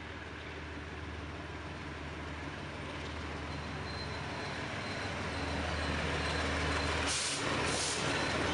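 Diesel freight locomotive approaching and passing close by, its engine a steady low drone that grows louder as it nears, with a faint high whine and two short hisses near the end.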